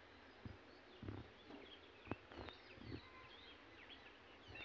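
Near silence with faint bird chirps and a few soft clicks or knocks, the sharpest about two seconds in.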